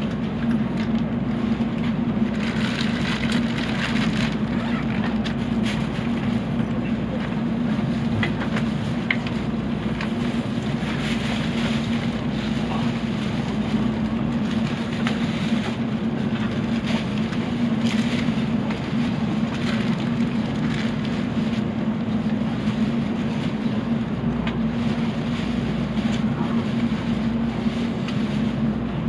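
N700 series Shinkansen running sound heard inside the car as it pulls out of the station just after departure: a steady rumble with a low hum and occasional light clicks.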